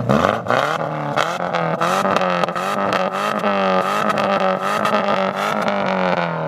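A Subaru Impreza 2.5 RS's flat-four engine, with its muffler deleted, revs up fast and is held at high revs. The open exhaust is loud, with many sharp crackles throughout.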